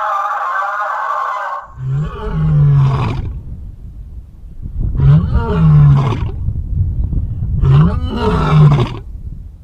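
A large animal giving three loud, deep calls a few seconds apart, each rising and then falling in pitch. These follow a shorter, higher call at the start.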